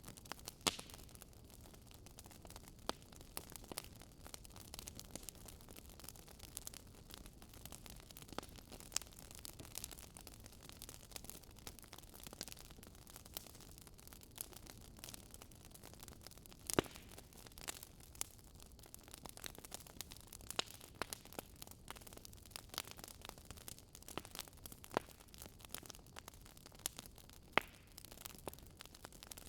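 Fireplace fire crackling: a soft steady hiss broken by irregular sharp pops and snaps, a few louder than the rest.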